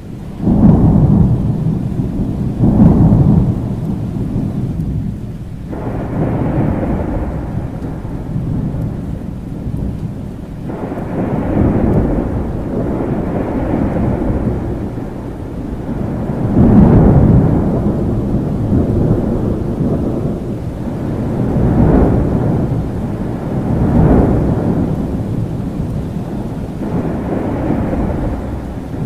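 Steady rain with repeated rolls of low thunder swelling and fading every few seconds, the loudest peals about a second in and just past halfway.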